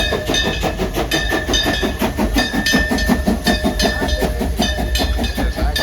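Train wheels clicking rapidly and evenly over rail joints, with a steady high-pitched squeal running under the clicks.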